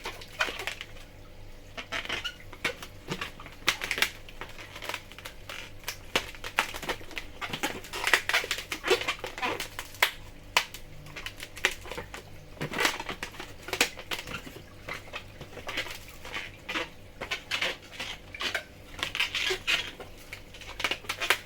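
Latex modelling balloons being twisted and handled, with irregular rubbery squeaks and light clicks and rubbing.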